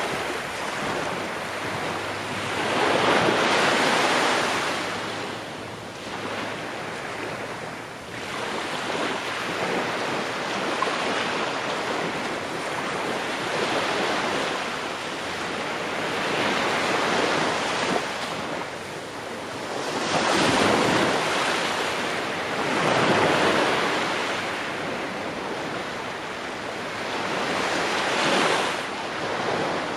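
Ocean waves breaking and washing on the shore, swelling and receding in surges every few seconds, with some wind.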